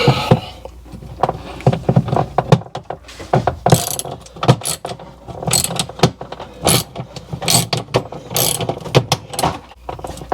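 A hand tool working a screw out of a refrigerator's plastic drain cover: irregular clicks and scrapes of metal on the screw and the plastic.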